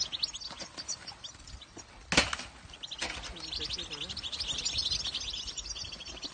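European goldfinches twittering in a fast, high, chattering run that starts about three seconds in and keeps going. A sharp knock about two seconds in is the loudest single sound.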